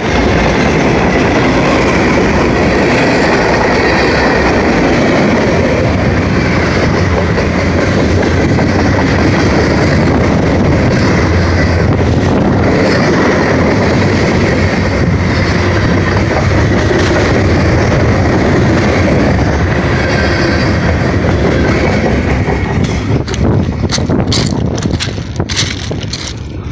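Train passing close by: a loud, steady rumble and rush of wheels on rail. Near the end it fades and breaks up into separate clicks and knocks.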